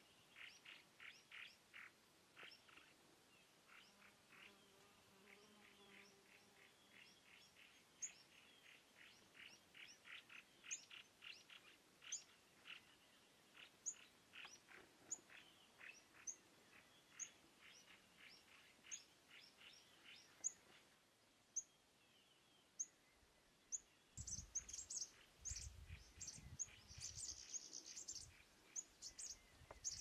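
Wild songbirds chirping: a long, regular run of short chirps with thin high calls over them. Near the end there is a louder, busier patch of high chirping with some low thumps under it.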